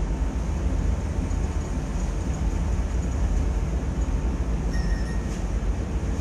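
Steady low rumble of a ferry under way, heard from on board: engine and water noise with no let-up. A brief thin high tone sounds for about half a second near the end.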